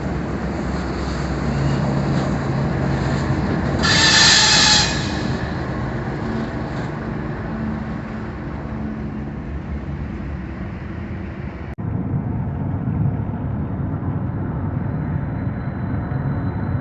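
Diesel-hauled freight train running with a steady low rumble, with a loud burst of noise lasting about a second around four seconds in.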